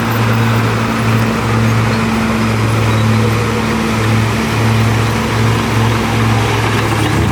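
Heavy diesel engine of earthmoving equipment running with a steady low drone that swells and dips slightly as the load changes.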